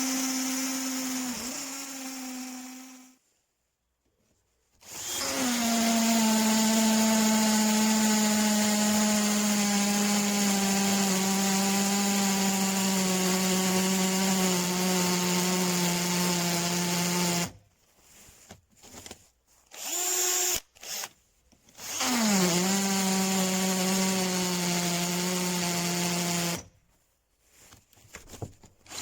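Bosch cordless drill running in several bursts: a short run, then a long run of about twelve seconds whose pitch slowly sags as the motor works under load, a few brief blips, and another run of about four seconds. Each start dips in pitch as the bit bites.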